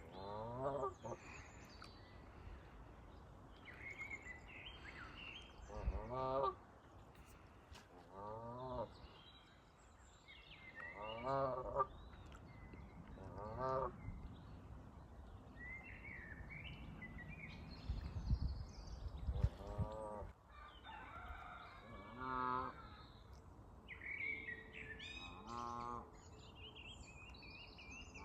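Canada geese honking, single honks every few seconds, with small birds singing in the background. A low rumble comes in about two-thirds of the way through.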